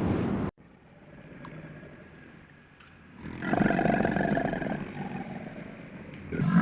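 A large farm animal gives one long, drawn-out call that begins a few seconds in and fades away. Just before it, a steady rushing noise cuts off abruptly near the start.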